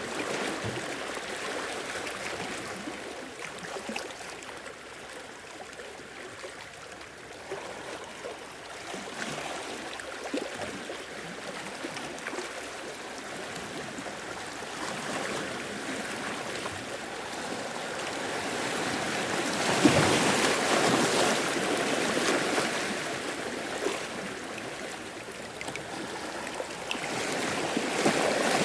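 Sea waves washing in and draining back, the sound rising and falling in slow surges, loudest about two-thirds of the way through and again near the end.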